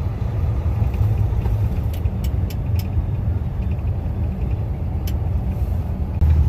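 Semi truck's engine and road noise rumbling steadily inside the cab while driving, with a few light clicks.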